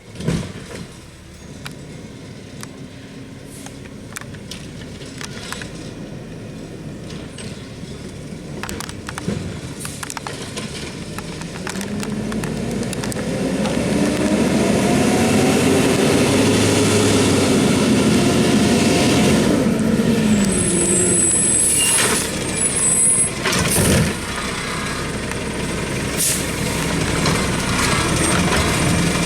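Garbage truck engine building up and running loud, its pitch rising and then falling, followed by a brief high squeal and a few sharp knocks and hisses of the kind air brakes make.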